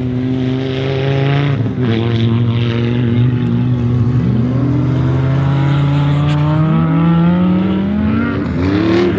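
Audi Sport Quattro S1 E2's turbocharged inline five-cylinder engine running under load. Its pitch drops sharply about one and a half seconds in, then climbs slowly and steadily, with a quick dip and recovery near the end.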